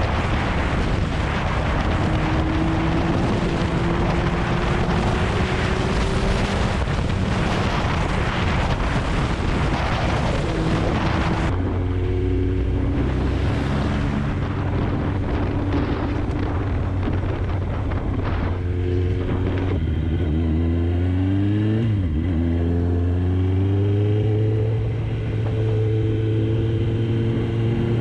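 Kawasaki Ninja ZX-9R's inline-four engine under way. For about the first eleven seconds, wind rushing over the microphone mostly buries it. Then the wind noise drops away suddenly and the engine note comes through clearly, its pitch falling and rising several times with gear changes and climbing steadily near the end.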